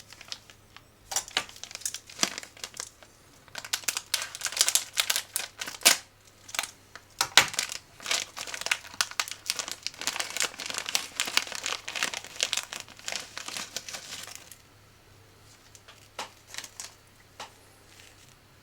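Snack packaging being handled, crinkled and torn open, with dense crackling that stops about fourteen seconds in, followed by a few faint clicks.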